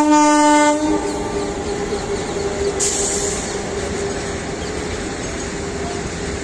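Indian Railways electric locomotive horn sounding for just under a second, followed by the steady rumble and rattle of the goods train rolling past, with a fainter steady tone under it for most of the time.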